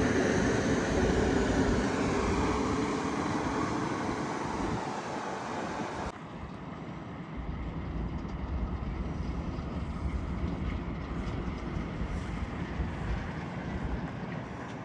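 A train passing and moving away, its running noise and tones sliding slowly down in pitch as it fades. About six seconds in, the sound cuts abruptly to a quieter low rumble.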